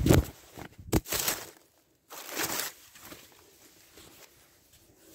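Handling noise from the camera being moved about: rustling of clothing and fabric, with a sharp knock about a second in and another burst of rustling a little later, then quiet.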